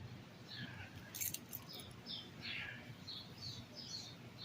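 A small bird chirping faintly, a scattered series of short high chirps, with a few faint clicks about a second in.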